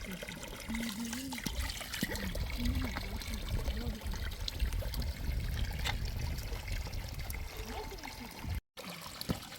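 Running water trickling and pouring, over a low rumble, with a low voice murmuring in the first few seconds. The sound cuts out for an instant near the end.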